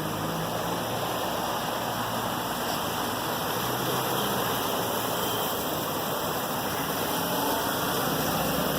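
Steady rushing of water from heavy rain and runoff, an even noise without breaks.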